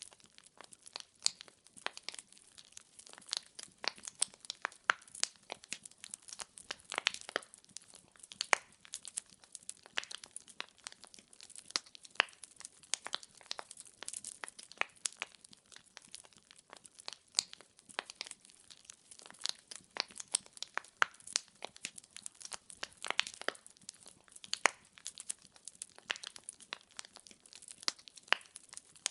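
Wood fire in a fireplace crackling, with a dense, irregular run of sharp pops and snaps as the logs burn.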